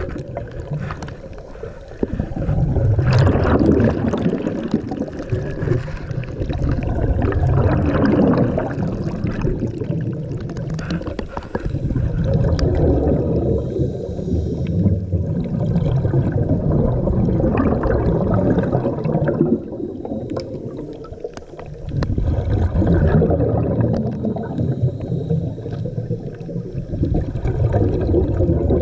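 Underwater gurgling and bubbling from a scuba diver's exhaled bubbles and moving water, heard through a diving camera's housing. It swells and eases in long waves, with short lulls about two, eleven and twenty-one seconds in.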